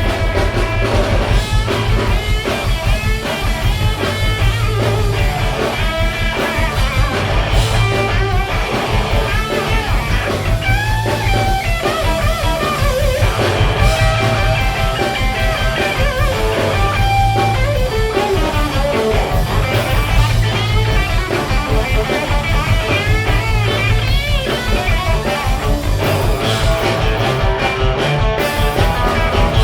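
A live rock band plays an instrumental break: an electric guitar lead bends and slides over bass and drums.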